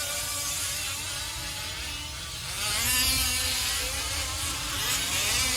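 Several 1/5-scale RC off-road trucks' small two-stroke gas engines buzzing and revving up and down as they race, getting louder about halfway through.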